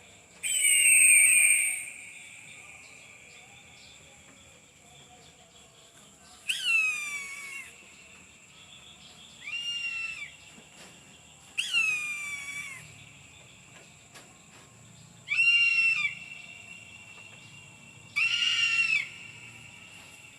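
Eagle calling six times: loud, high-pitched screams about a second long that slide down in pitch, a few seconds apart. A steady faint high whine runs underneath.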